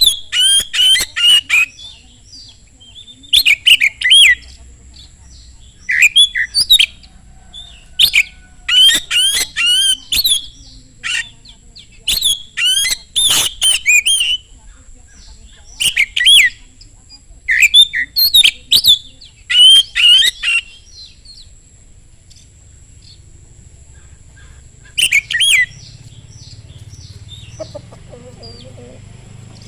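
Magpie-robin (kacer) singing loudly in fierce, fast phrases of sharp whistled and chattering notes, each burst about a second long with short pauses between, falling silent for a few seconds before a last phrase near the end.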